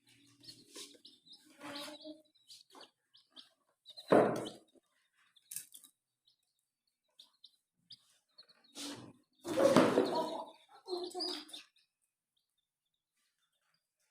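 Baby chicks peeping in short, high, scattered cheeps, with louder, fuller sounds about four seconds in and again around ten seconds in.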